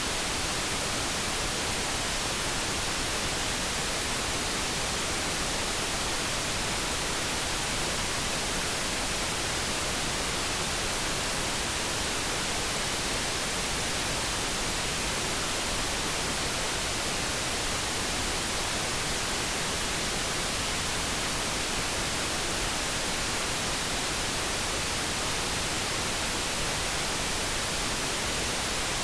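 Steady synthetic noise, an even hiss with no changes or distinct events. No kettle tone stands out.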